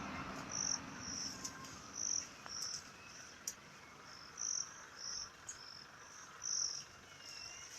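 Crickets chirping faintly in short, high-pitched bursts, roughly one every half second with a few brief pauses.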